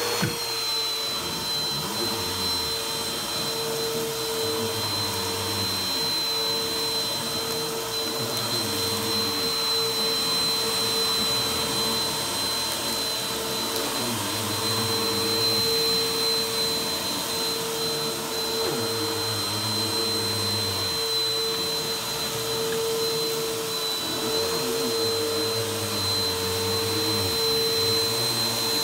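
Vacuum cleaner running on a rug: a steady motor whine over a rushing airflow noise, its lower sound rising and falling every few seconds.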